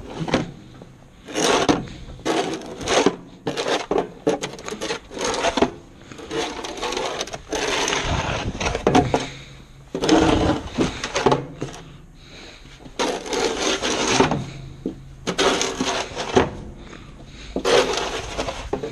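Snow shovel scraping and pushing snow in a series of irregular strokes, each from about half a second to a second and a half long, with short pauses between.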